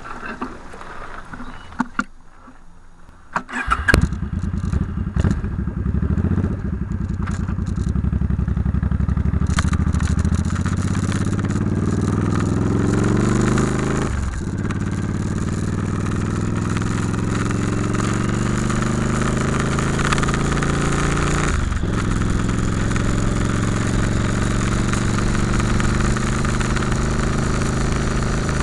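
A few clicks, then a motorcycle engine starts up about four seconds in. The bike pulls away with the engine note climbing, drops twice for gear changes, then settles into steady riding.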